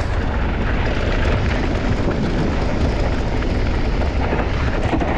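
Mountain bike rolling fast down a bike-park trail: steady wind rush on the microphone and tyre noise on the dirt, with small knocks and rattles from the bike over bumps.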